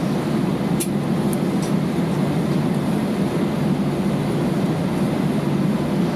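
Steady low rumble of cabin noise inside an Airbus A320 taxiing after landing, with a few faint light clicks about a second in.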